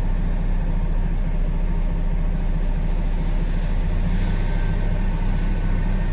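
Dump truck's diesel engine idling steadily, a low even rumble.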